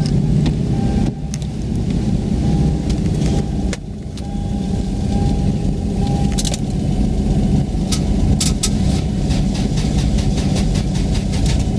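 Toyota Aristo engine running with a steady low hum. It dips briefly about a second in and again near four seconds, with scattered sharp clicks over it.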